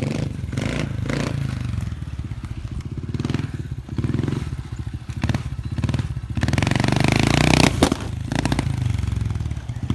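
Dirt bike engine running and revving, growing louder about six seconds in, with a single sharp bang about eight seconds in.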